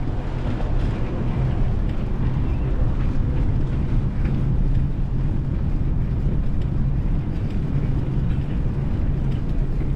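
Steady low rumble of a motor vehicle's engine, mixed with wind and road noise.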